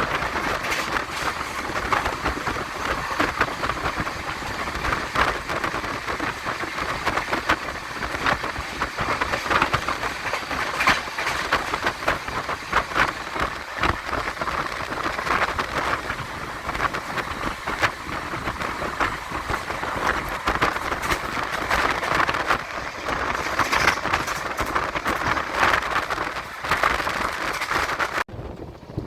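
Amrit Bharat Express train running along the track: a steady rushing noise of the moving coaches with constant rapid clatter and rattling from the wheels on the rails. It briefly cuts out near the end.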